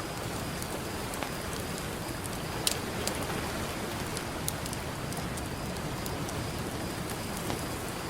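Campfire crackling, with sharp pops scattered over a steady wash of ocean surf. One pop, about two and a half seconds in, stands out louder than the rest.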